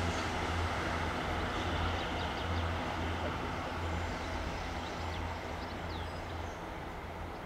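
Diesel multiple unit's underfloor engines and running gear rumbling with a pulsing low throb as the train moves off, slowly fading.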